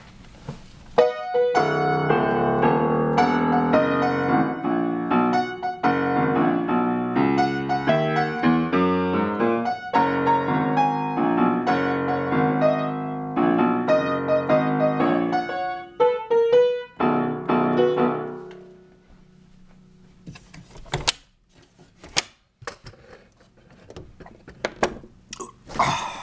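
Piano music plays a run of chords and melody, then fades out about eighteen seconds in. After that, scattered sharp clicks and knocks.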